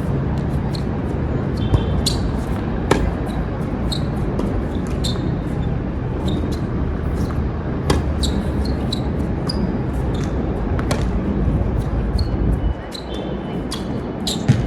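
Tennis balls struck by rackets and bouncing on a hard court during a rally, with sharp hits every few seconds and short shoe squeaks, over steady heavy wind noise on the microphone.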